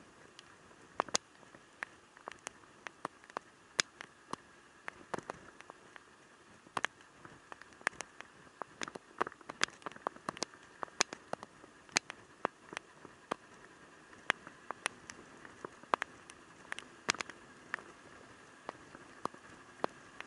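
Raindrops striking close by in sharp, irregular taps, several a second, over a faint steady background hum.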